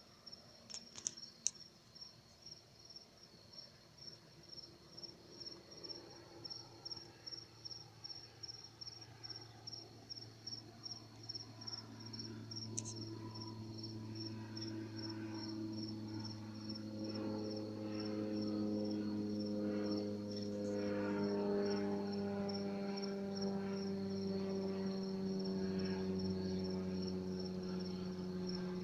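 Crickets chirping steadily, about twice a second, while the low hum of a Cessna Grand Caravan's turboprop engine grows louder from about ten seconds in as the plane passes low, its pitch falling slightly as it goes by.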